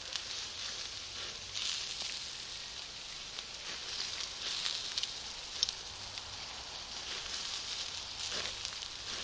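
Charcoal and wood fire hissing steadily with scattered crackles and sharp pops, the loudest snap about five and a half seconds in.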